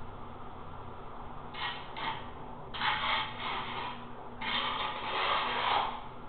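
Scraping or rubbing strokes against a hard surface: two short strokes, then two longer ones of over a second each.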